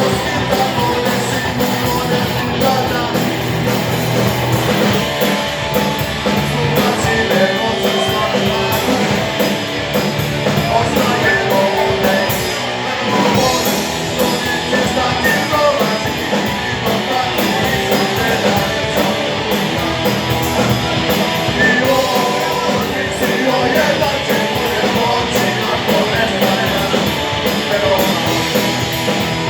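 Rock band playing live, with electric guitars, bass, drums and vocals.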